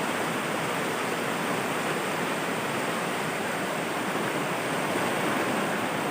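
River water rushing over rocky rapids and small falls: a steady, even rush of water.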